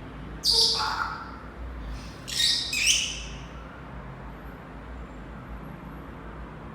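Pet parrot giving two harsh, high screeching calls, the first about half a second in and the second around two and a half seconds in.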